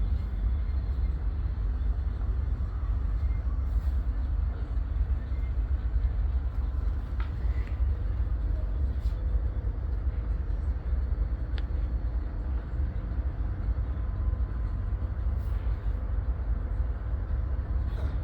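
Diesel-electric freight locomotives idling at a standstill: a steady low rumble, with a few faint clicks.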